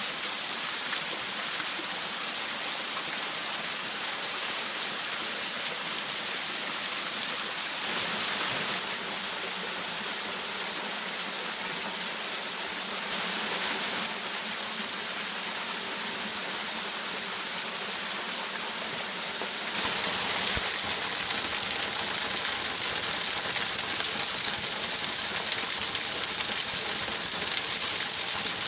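Waterfall: a steady rush of falling water, louder for a moment about eight and thirteen seconds in, and louder again from about twenty seconds in.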